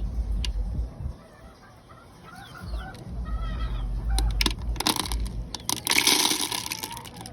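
Game fowl clucking and calling with many short chirps, over a low rumble. Loud rustling bursts come about four and a half and six seconds in.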